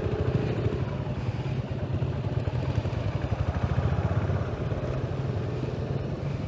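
Honda H'ness CB350's single-cylinder engine running with a fast, even pulsing as the ride gets under way. A steady mid-pitched tone sounds over it and stops a little under a second in.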